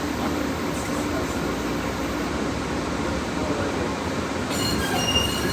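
Interior of a Boston Green Line light-rail car running through the subway tunnel: a steady rumble and hum of wheels on rail. About four and a half seconds in, a high, thin steel wheel squeal sets in as the car starts into a curve.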